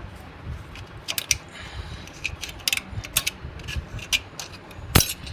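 Hand tools working on metal tractor parts: irregular metallic clicks and clinks, with one sharp metal knock about five seconds in.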